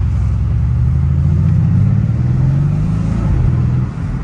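Mercedes-AMG C63 S's stage 1 tuned 4.0-litre twin-turbo V8 pulling under acceleration, heard from inside the cabin. The engine note climbs slowly, then dips briefly near the end.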